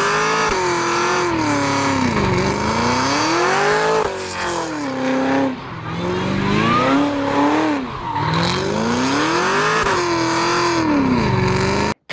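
Cadillac CT5-V Blackwing's supercharged 6.2-litre V8 accelerating hard, its note climbing and then dropping back several times as it shifts up through the gears. It cuts off suddenly near the end.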